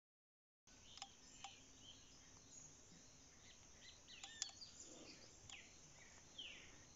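Faint outdoor ambience with several small birds chirping and giving short falling calls, starting abruptly after a brief moment of total silence. A sharp click stands out about four and a half seconds in.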